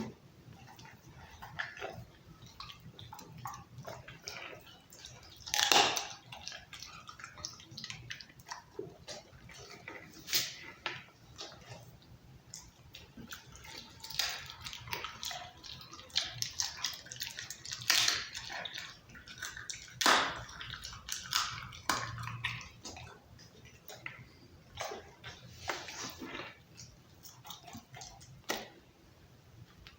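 Pit bull eating raw chicken and meat with bone: irregular wet chewing, smacking and crunching, with a few louder cracks.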